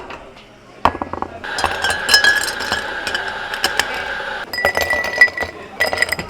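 Glass and ice clinking sharply and repeatedly as a drink is made. Behind the clinks, a steady high whine sounds from about a second and a half in for about three seconds, followed by two shorter, higher whines near the end.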